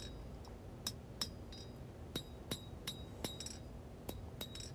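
Blacksmith's hand hammer striking hot high-carbon steel on an anvil while forging a finger well. About ten blows, often in quick pairs, each with a short, high metallic ring.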